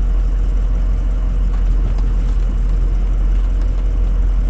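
Ford F-250's engine running steadily at low speed, a constant low rumble with no change in pitch.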